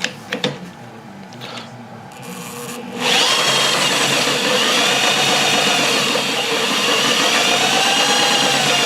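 A few light clicks, then about three seconds in a power tool's motor starts and runs loudly and steadily, its whine wavering up and down in pitch.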